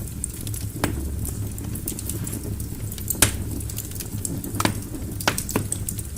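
Burning logs crackling in a fireplace: a steady low rumble under frequent small ticks, with a handful of sharper pops, the loudest about three seconds in.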